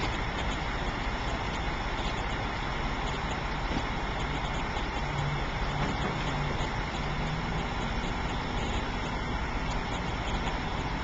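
Delivery truck running steadily at idle, with a faint low hum from about five to seven and a half seconds in.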